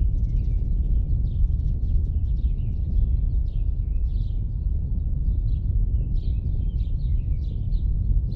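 Small birds chirping in quick repeated short calls over a steady low outdoor rumble.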